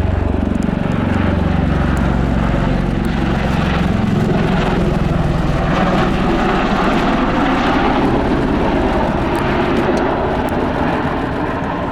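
Boeing-Bell CV-22B Osprey tilt-rotor, its two Rolls-Royce turboshaft engines and big proprotors loud and close. The nacelles are at about 75 degrees for a short takeoff. A low rotor beat drops in pitch over the first few seconds, then settles into a steady heavy rumble.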